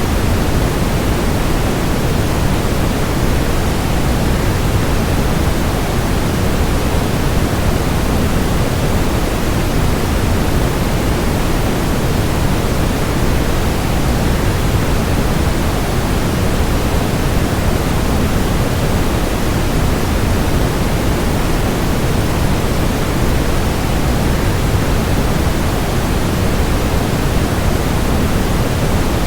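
Steady rush of a waterfall blended with white noise: an even, unbroken hiss, fuller in the low end, with no changes or separate events.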